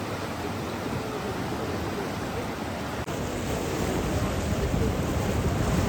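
Steady rushing water, an even noise that grows a little louder toward the end.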